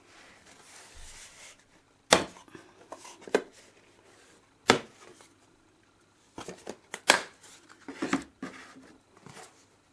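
A piece of 3 mm rigid foam board being broken out along knife-scored lines, giving a series of sharp snaps, the loudest about two, four and a half and seven seconds in. Softer crackling and handling noise come between the snaps.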